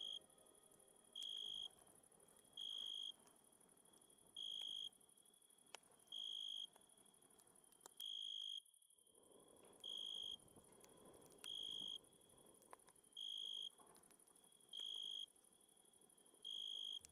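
Cricket chirping at a steady pace, a short high trill about every second and a half, about ten times. Underneath run a steady high hiss and the faint crackle and pops of a campfire.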